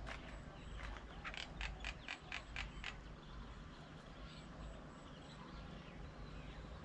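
A bird's harsh chattering call, a rapid run of about eight rasping notes at roughly five a second, followed by fainter bird calls over a low steady background rumble.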